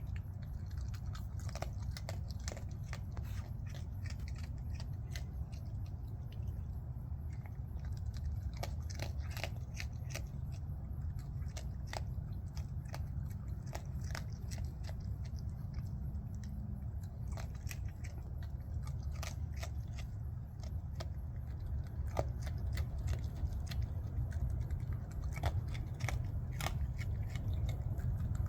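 Raccoon chewing dry cat food: irregular crunches and clicks of kibble being bitten, over a steady low hum.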